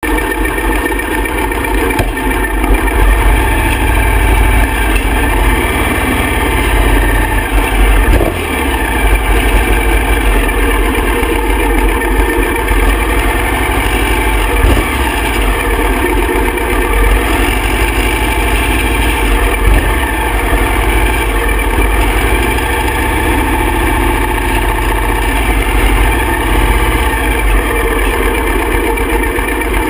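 Harley-Davidson Softail V-twin engine idling steadily and loudly, heard close up from a camera mounted on the bike.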